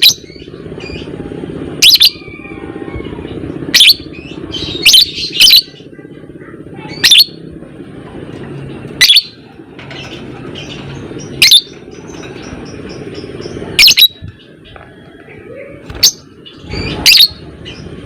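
Fighter-type lovebird giving short, loud, high-pitched calls, about eleven, roughly every one to two seconds and some in quick pairs, over a steady low background noise.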